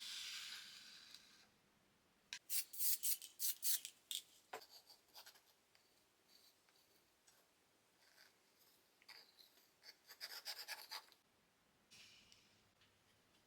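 Short scratching and rubbing strokes of hand work on wood, coming in quick runs of several strokes with pauses between.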